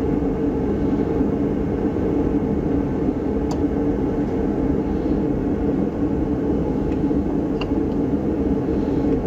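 A steady mechanical drone with several held tones, with a few light clicks about three and a half seconds in and twice more near the end.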